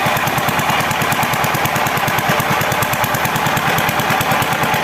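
KOYO 25HP single-cylinder diesel engine running steadily on its test run after the cylinder head was refitted, with a fast, even chugging pulse.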